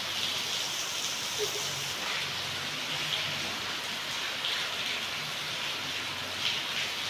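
Steady rain falling: an even hiss with no breaks, and a faint low hum underneath.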